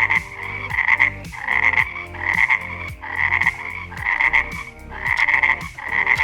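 A frog croaking over and over, about one croak every three quarters of a second.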